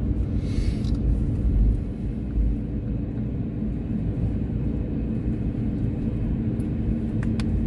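Steady low rumble of road and engine noise inside a moving vehicle's cabin, with a couple of short clicks near the end.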